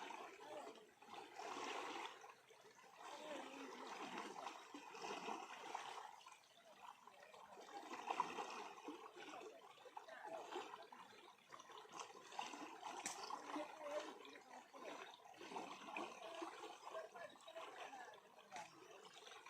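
Faint, uneven burble of flowing water, as from a rocky stream or river, with a single sharp click about two-thirds of the way through.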